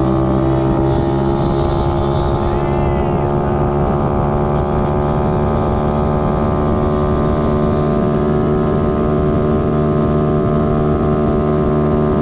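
Small dirt bike engine running at a steady speed under way, its pitch easing slightly in the first few seconds and then holding.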